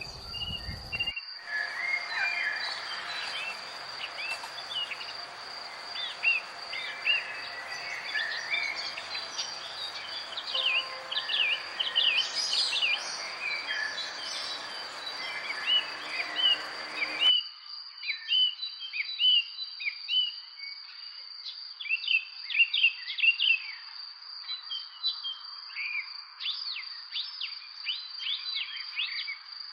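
Small birds chirping in many quick, sharp calls over a steady high-pitched insect trill, such as a cricket's.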